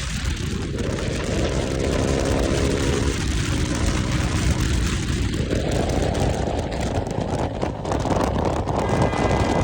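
KTM motorcycle with a newly fitted aftermarket exhaust, riding along: the engine and rushing air swell up and die away twice, over a steady low wind rumble.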